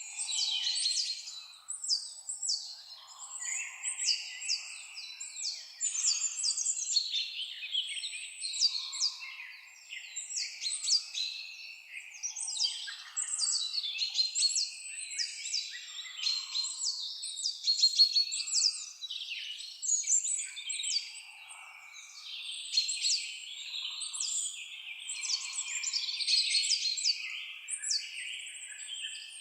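Several songbirds singing and chirping together, a continuous chorus of high, quick notes, many sweeping downward in pitch.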